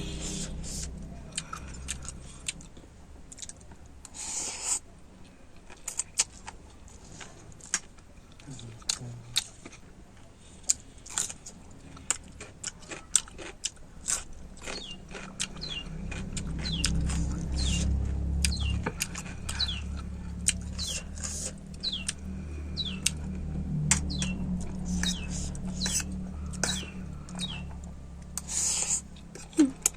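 Close-up eating sounds of instant noodles: chewing and biting with many sharp wet mouth clicks and short squelches. A steady low hum sits underneath, growing stronger about halfway through.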